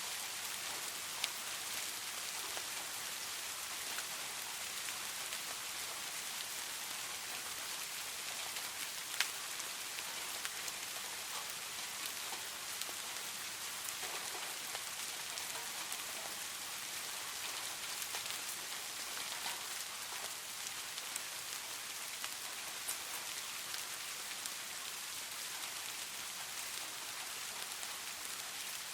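Steady rain falling, an even hiss with a few sharper single drop hits standing out, the clearest about a second in and about nine seconds in. No thunder.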